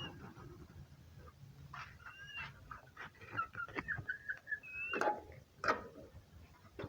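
Domestic chickens making soft, thin, high-pitched whining calls, a string of short notes, with two louder sharper calls about five seconds in.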